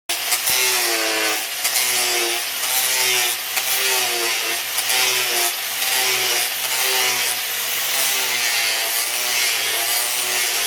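Hand saw cutting through wood in steady back-and-forth strokes, a little more than one a second, with a rasping hiss.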